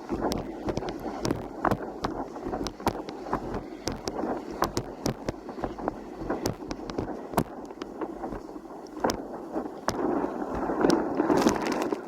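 Strong wind buffeting the microphone over splashing water, with many short sharp slaps of choppy water.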